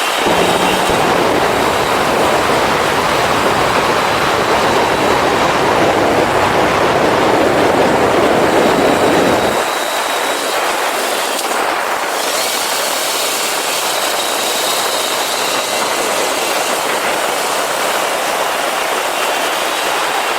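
Motorcycle on the move: engine running under a steady rush of wind on the microphone. The deep rumble drops away suddenly about ten seconds in, leaving a thinner, even noise.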